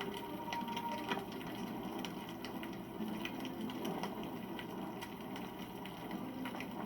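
Wood campfire burning: irregular crackles and small pops over a steady low rush of the flames.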